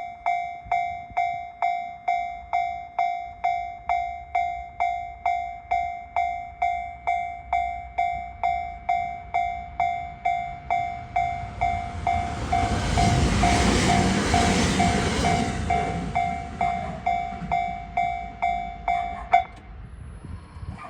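Japanese level-crossing warning bell dinging about twice a second while a train runs past, the train's rumble swelling up in the middle and fading away. The bell stops abruptly near the end as the crossing clears.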